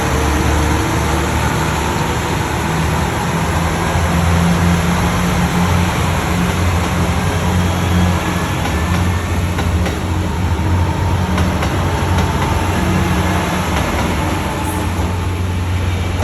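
Diesel railcar engines running steadily as a low, even drone with a few faint steady tones above it.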